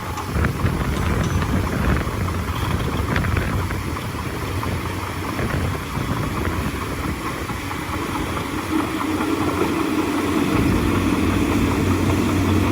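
Diesel engine of a bulldozer running under load, a steady low drone that grows a little louder and more even about two-thirds of the way in.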